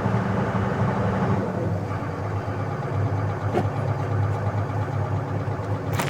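Excavator's diesel engine running steadily, with a short sharp click near the end.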